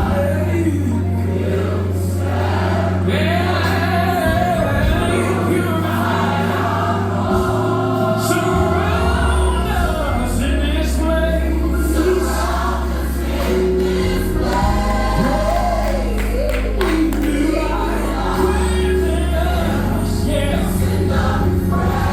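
Gospel music: a choir singing over a band, with held bass notes that change every few seconds and solo vocal lines gliding above.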